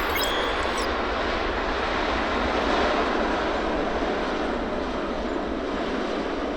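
Boeing 777-300ER jet airliner's GE90 engines, a steady broad roar of jet noise that swells slightly midway.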